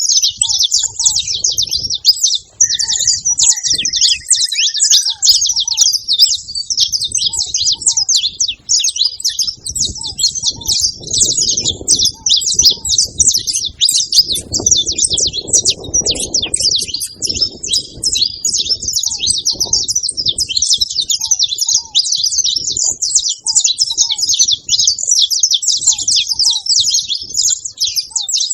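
Saffron finches chattering: a dense, unbroken stream of high, overlapping chirps from several birds at once.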